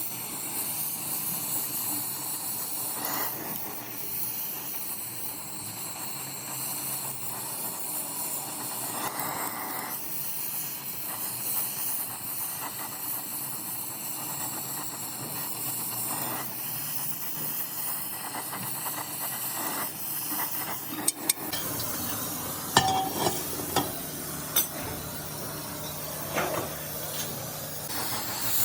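Steady hissing throughout, with several sharp knocks in the last several seconds.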